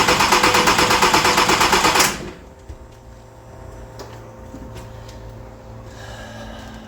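Loud, rapid, rhythmic mechanical clatter at about seven beats a second that cuts off suddenly about two seconds in, leaving a faint low steady hum with a few light clicks.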